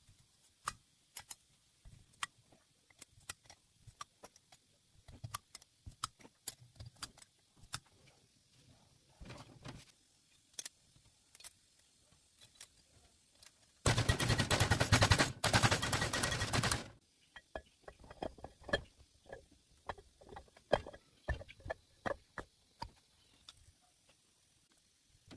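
Scattered metallic clicks and clinks of hand tools and engine parts being handled. Past the middle comes a loud rapid-fire rattle of a pneumatic tool for about three seconds, broken once briefly.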